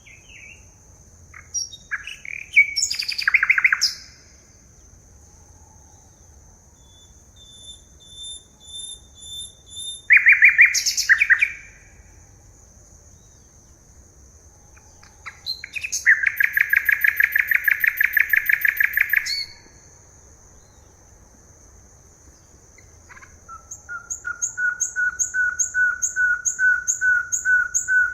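Forest songbirds singing: short chirping phrases, then a long even trill of about three seconds, then a fast run of repeated notes building near the end, over a steady high-pitched hum.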